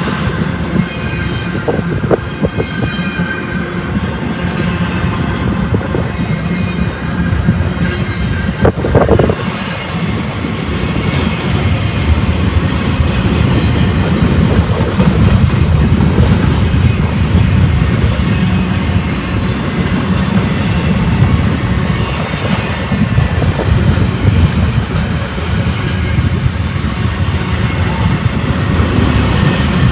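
BNSF freight train rolling past close by, a steady loud rumble with wheels clattering over the rails and one sharp knock about nine seconds in.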